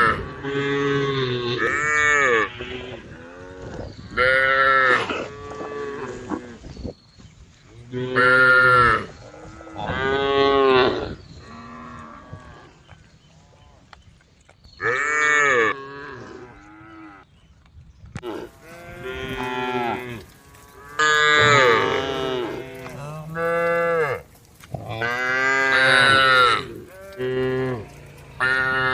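Cows mooing over and over: more than a dozen loud calls, each about one to one and a half seconds long, with short pauses between them.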